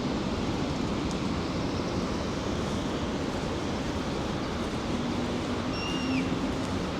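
Steady rushing of the Rhine Falls waterfall, with a short high chirp about six seconds in.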